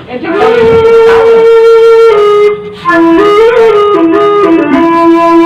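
Sasak bamboo flute (suling) playing a slow wayang Sasak gending melody of long held notes that step up and down, with a short break about two and a half seconds in.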